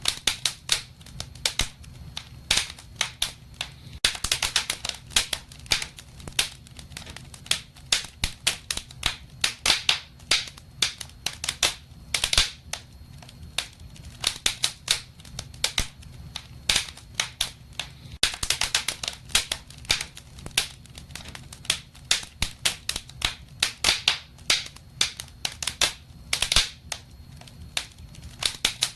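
Wood fire crackling in a fireplace: irregular sharp pops and snaps, in clusters every few seconds, over a low steady background.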